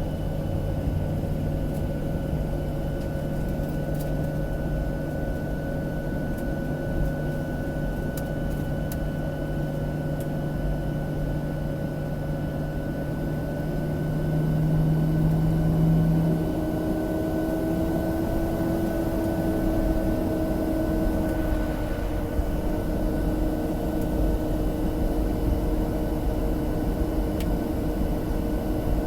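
Cabin noise inside a Boeing 737-700: a steady hum and rush of the engines and air system with whining tones. About halfway through, a couple of tones rise in pitch and then settle, as the engines change power.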